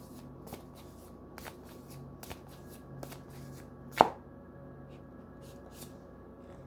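A tarot deck being shuffled by hand: a run of soft, irregular card flicks and taps, with one sharper, louder snap about four seconds in.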